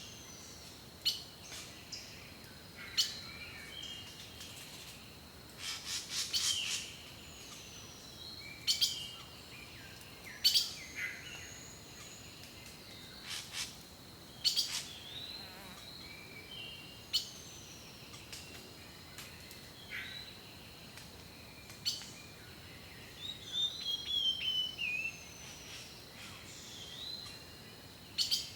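Songbirds singing: scattered short chirps, whistled notes and quick trills, with a busier run of trilled notes near the end.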